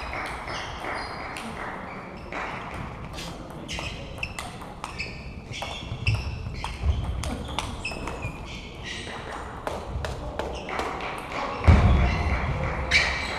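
Table tennis balls clicking sharply and irregularly off bats and tables, over the chatter of voices in a large hall, with a couple of heavy low thuds.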